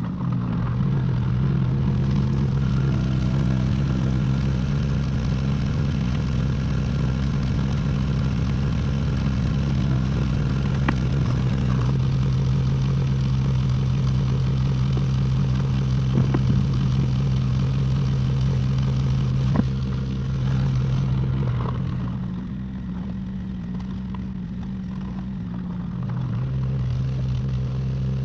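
Excavator engine running steadily, with a few sharp clanks from the machine at work; the engine eases off for a few seconds about two-thirds of the way through, then picks up again.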